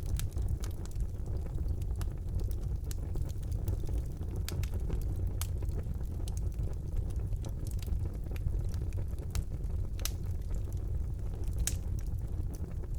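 Wood fire burning in a fireplace: a steady low rumble of flames with scattered sharp crackles and pops, a couple of them louder near the end.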